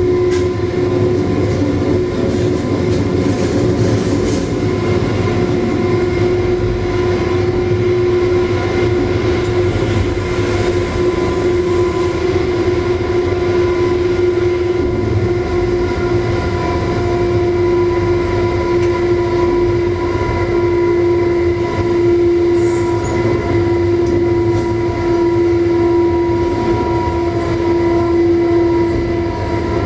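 Electric train running at speed, heard from the driver's cab: a steady rumble of wheels on rail under a constant droning whine.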